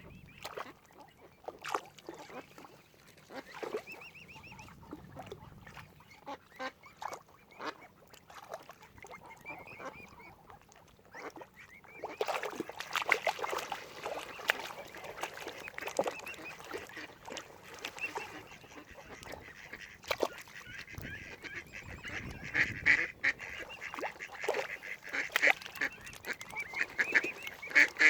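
Waterfowl calling: many short quacking and honking calls, scattered at first and becoming busier and louder from about halfway through.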